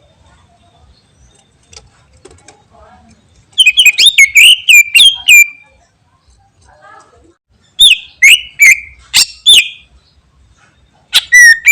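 Greater green leafbird (cucak ijo) singing in loud bursts of sharp, whistled notes with quick up-and-down pitch sweeps. There are three phrases with quiet pauses between them: one about four seconds in, one about eight seconds in, and a short one starting near the end.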